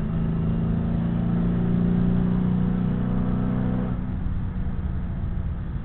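2009 Mustang GT's 4.6-litre V8 with long-tube headers, running at steady revs under a low road and tyre rumble. About four seconds in, the engine note fades away and only the rumble is left.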